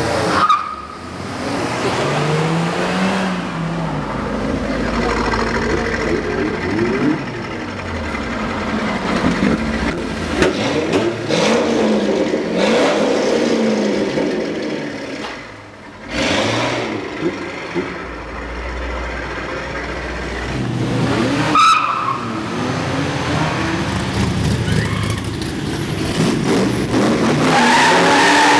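Several high-performance car engines, one after another, revving hard and accelerating through a road tunnel, with the engine pitch rising and falling repeatedly and sudden breaks between passes.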